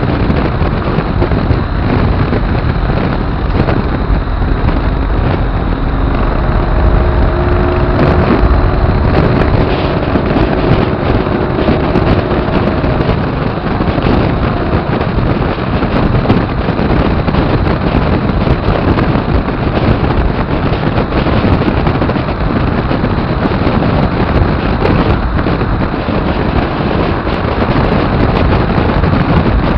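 Motorcycle under way: steady, loud wind rush over the microphone, with engine and road noise beneath. A faint engine note can be picked out from about six to thirteen seconds in.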